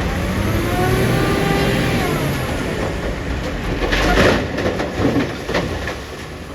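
Caterpillar 966D wheel loader's diesel engine revving up and easing off, followed by a loud burst of clattering about four seconds in and a few sharp knocks over the next second and a half.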